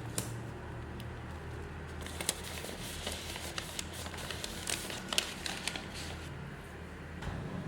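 Hands handling packaging, with scattered crinkles, clicks and taps, over a steady low hum.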